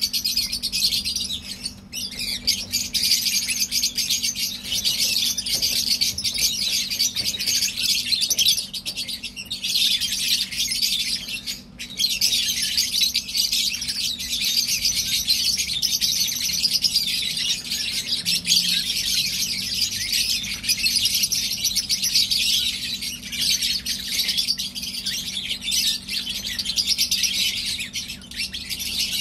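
A flock of lovebirds chirping and chattering together in a constant high-pitched din, dipping only briefly twice.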